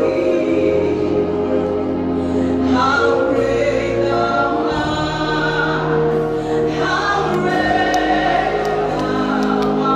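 Gospel choir singing a slow hymn with sustained chords over bass accompaniment.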